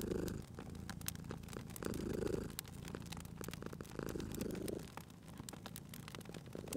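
Domestic cat purring, swelling and easing about every two seconds with its breaths, over the crackle and pop of a fireplace fire.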